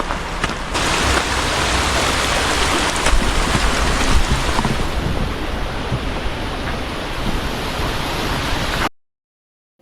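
Steady rushing of flowing water, a mountain stream or waterfall, a little louder from just under a second in; it cuts off suddenly near the end.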